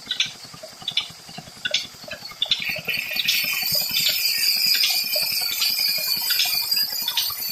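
Old single-cylinder Petter diesel engine running steadily with a rapid, even beat and a regular metallic clink. About three seconds in, a high, ringing rasp starts and continues, typical of the engine-driven wood cutter's blade cutting into wood.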